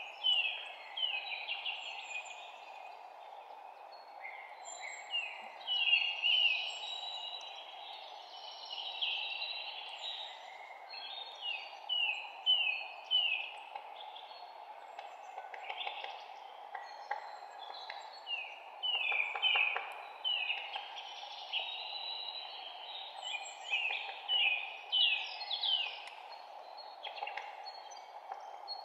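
Birds calling in forest: many short downward-sliding chirps, often in quick runs of three or four, over a steady background hiss.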